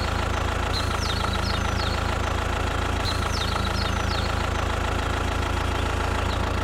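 Engine idling with a steady low hum, with birds chirping in short bursts a couple of times.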